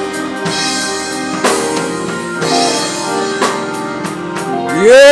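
Gospel band playing between sung lines: sustained keyboard chords with a few drum kit hits. A singing voice comes in loudly near the end.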